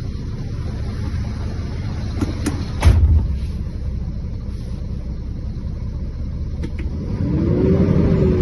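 Scania diesel engine idling with a steady low rumble, a sharp knock about three seconds in, and a brief rev that rises and falls near the end.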